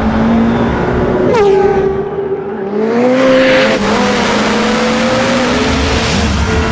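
McLaren Senna's twin-turbo V8 revving hard, its pitch dropping sharply about a second and a half in, then climbing again around three seconds in.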